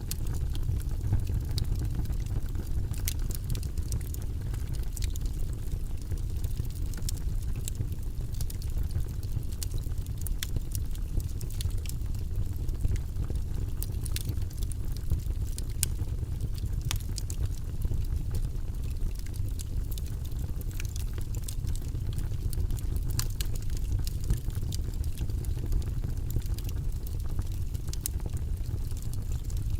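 Wood fire burning in a fireplace: a steady low rumble of flames with many small irregular crackles and pops from the logs.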